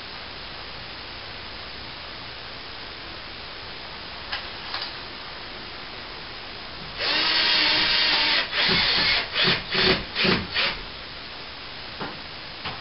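Power drill driving a screw into ceiling plasterboard: one steady run of about a second and a half, then several short bursts as the screw is snugged home.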